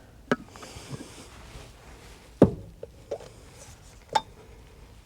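Three sharp knocks about two seconds apart, with a few fainter taps between, as things are handled inside a truck camper.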